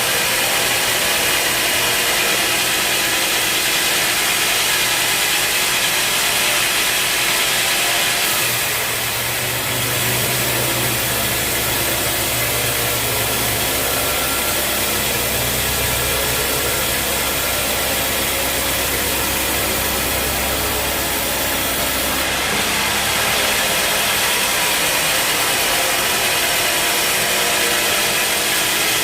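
Sawmill running steadily, a dense mechanical noise with many steady tones. A deeper hum joins from about nine seconds in and fades out a little after twenty seconds.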